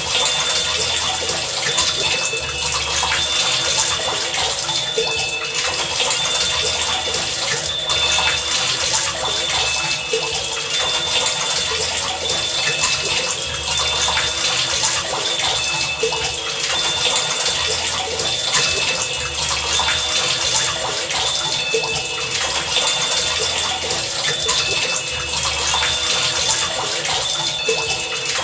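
Heavy rain falling steadily, a dense hiss. Short, high ringing tones and a low rumble recur every few seconds through it.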